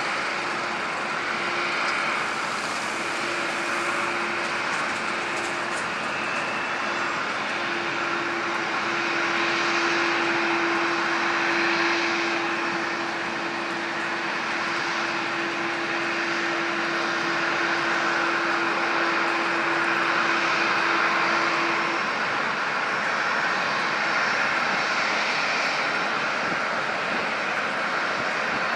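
Boeing 747-400 freighter's jet engines running steadily, with gentle swells in level. A steady low whine sits under the noise and stops about three-quarters of the way through.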